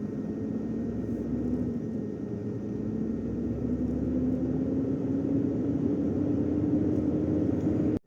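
Truck engine running as it gains speed, its pitch climbing slowly and steadily over several seconds, then cutting off suddenly.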